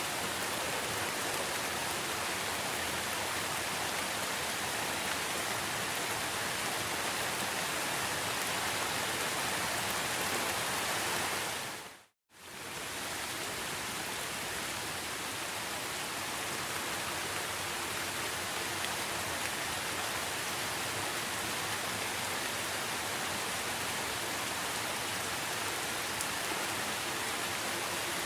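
Steady rain falling, an even dense hiss. About twelve seconds in, it fades out to silence for a moment and fades straight back in, like the seam of a looped recording.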